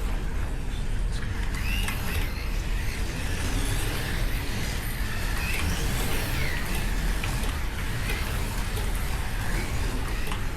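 Hypercar-class slot cars lapping the track in practice, their small electric motors whining and rising and falling in pitch as they speed up and slow down.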